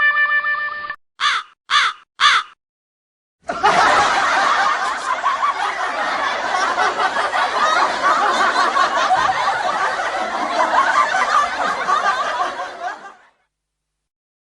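Three short caws about half a second apart, like a crow sound effect, then about ten seconds of dense crowd laughter that cuts off abruptly. A held musical note ends about a second in.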